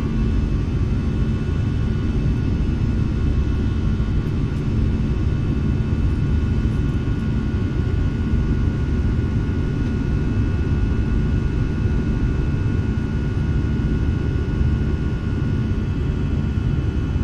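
Steady jet airliner cabin noise in flight: a deep, even rumble of engines and airflow with a few faint steady whining tones above it.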